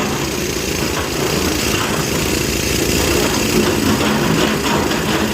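Heavy diesel engine of construction machinery running steadily at a working pace.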